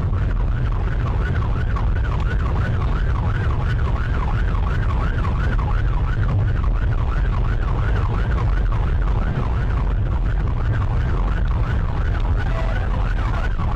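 Police car siren sounding a fast rising-and-falling wail, about three sweeps a second, over a steady low rumble of engine and road noise.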